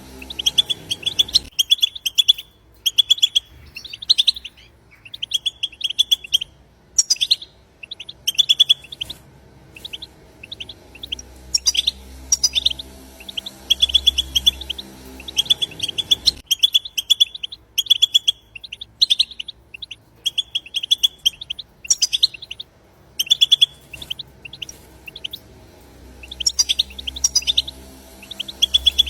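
European goldfinch song: fast twittering phrases of quick chirps and trills, repeated again and again with short pauses between them.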